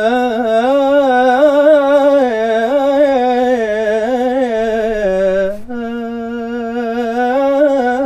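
A solo unaccompanied voice sings a long, ornamented "ya layl" phrase in maqam Saba, wavering and sliding between notes. It breaks off briefly about two-thirds of the way in, then resumes on a lower, steadier note.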